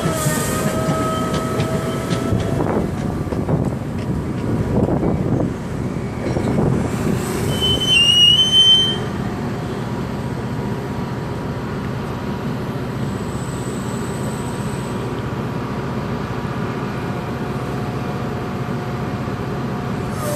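Metra commuter train pulling in and braking to a stop, with wheel and brake squeal and a sharp high squeal about eight seconds in, the loudest moment. After that the train stands with a steady, even rumble of the locomotive running.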